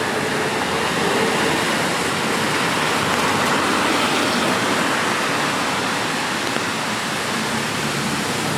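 Steady hiss of rain and traffic on a wet city street, swelling for a couple of seconds around the middle as the noise of vehicles on the wet road rises.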